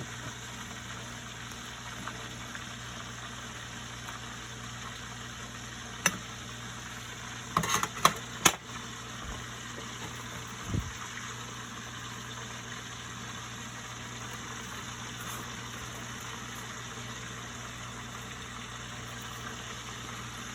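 Steady hum of a small motor or fan running in the kitchen, with a sharp click about six seconds in, a quick cluster of clicks and clatter around eight seconds, and a dull thump a few seconds later.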